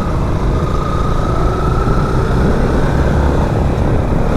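Motorcycle running at steady cruising speed, its engine drone mixed with wind rumble on the rider's microphone and a thin steady whine that comes in about half a second in.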